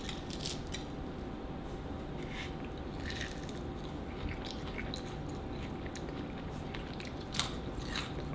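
Someone biting into and chewing a piece of crispy home-made fried chicken, with scattered small crunches.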